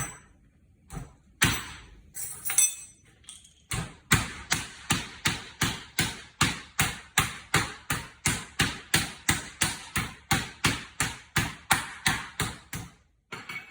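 Chicken breast in a sealed plastic bag being pounded thin on a cutting board. A few scattered blows come first, then a steady run of about three hard thuds a second that stops shortly before the end.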